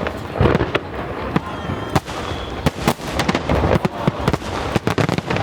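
Aerial fireworks bursting in quick, irregular succession: many sharp bangs and cracks, one after another.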